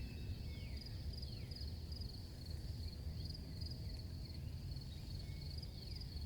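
Crickets chirping in a steady run of pulsed trills, with faint downward-sliding whistled calls and a low rumble underneath.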